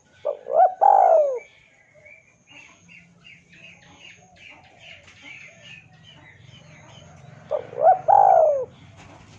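A dove cooing twice, each a three-note coo phrase about a second long. The first comes near the start and the second about 7.5 s in. Between them, smaller birds chirp quietly over a faint low hum.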